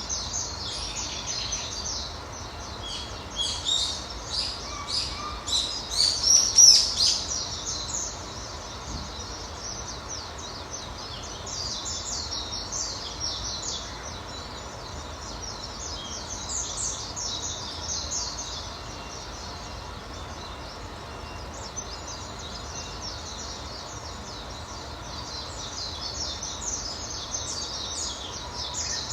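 Several small birds chirping and twittering rapidly over steady outdoor background noise, loudest about six seconds in, then continuing in quieter bouts.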